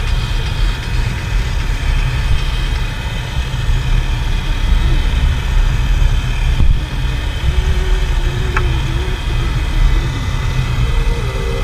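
Dirt bike engine running, heard as a heavy low rumble that rises and falls in loudness, with a faint wavering whine in its middle.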